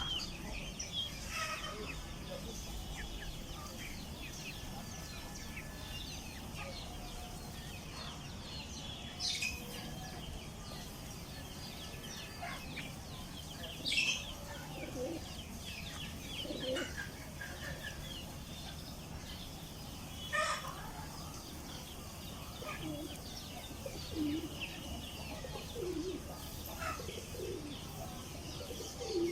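A hen and her chicks: the chicks peep over and over in short high calls, a few louder falling peeps stand out, and the hen clucks low from about halfway on.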